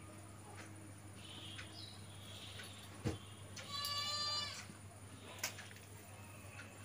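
A goat bleats once, a single drawn-out call about four seconds in. A sharp knock comes just before it.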